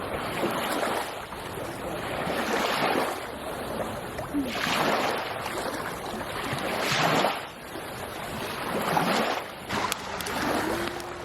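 Small waves washing onto a beach, swelling and falling back about every two seconds, with some wind on the microphone. A faint steady tone comes in near the end.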